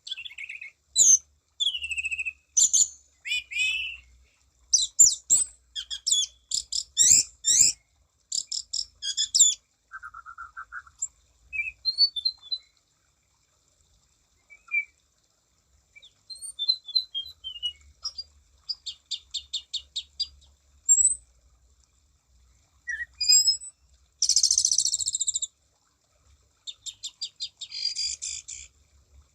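Orange-banded thrush (anis cendana) singing a varied song of clear whistles, pitch glides and fast rattling trills, with a pause about halfway. Near the end come harsher, buzzy phrases.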